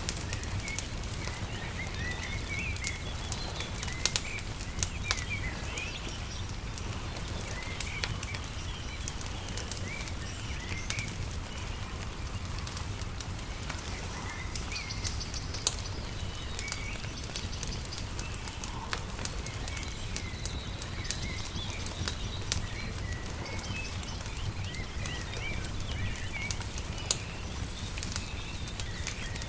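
Wood fire crackling with sharp pops scattered throughout, layered with small birds chirping and a steady low rumble underneath.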